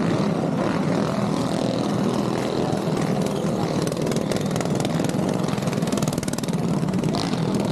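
Minibike engine running at a steady speed, an unbroken buzzing drone with no revving up or down.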